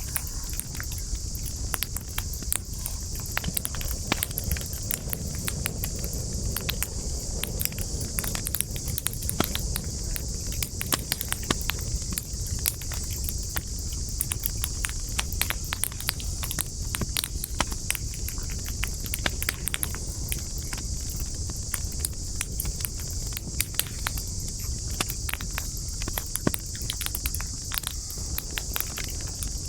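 Wood campfire crackling, with frequent irregular sharp pops and snaps over a low rumble of burning, and a steady high-pitched hiss underneath.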